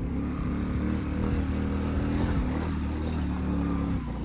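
Motorcycle engine running under way, its pitch shifting up and down with the throttle, easing off slightly near the end.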